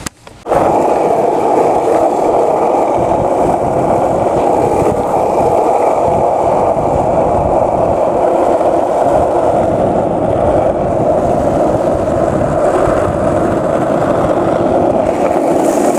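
Skateboard wheels rolling over pavement: a steady, gritty rolling noise that starts just after the beginning and runs on evenly.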